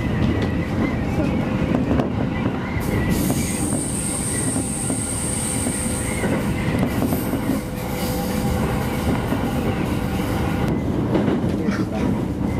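JR Musashino Line electric commuter train running, heard from just behind the driver's cab: a steady rumble of wheels on rail. A thin high whine with hiss comes in about three seconds in, and the hiss stops sharply near eleven seconds.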